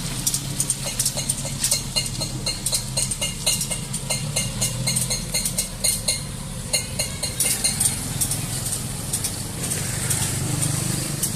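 A motor engine idling steadily, with a run of quick metallic clinks, about three or four a second, that starts about a second in and stops about eight seconds in.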